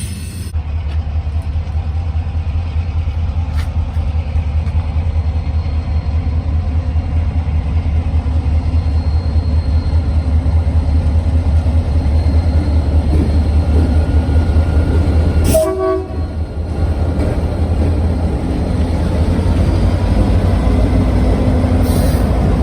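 Freight train running with a loud, steady low rumble, and a short burst of pitched tones, like a brief horn toot, about fifteen seconds in.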